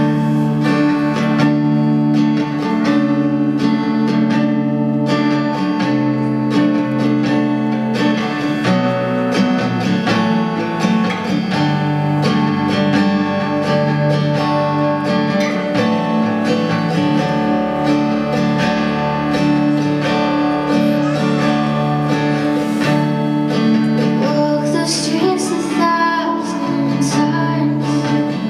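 Live performance of a slow pop song led by guitar, with a woman singing.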